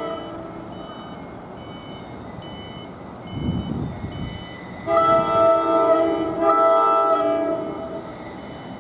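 NJ Transit train horn sounding a multi-note chord in two long blasts, starting about five seconds in with a short break between them, the second fading out. Before it, a faint high dinging repeats about twice a second.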